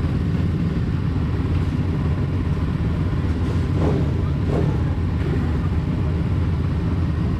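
Pit bike engines running as a steady low rumble, with a couple of brief rising and falling glides about halfway through.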